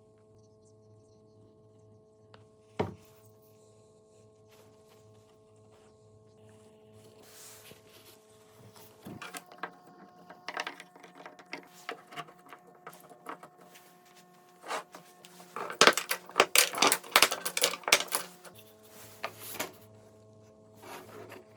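Scattered knocks and taps of woodworking handwork, with one sharp knock early on and a rapid flurry of sharp taps about three-quarters of the way through, over soft sustained background music.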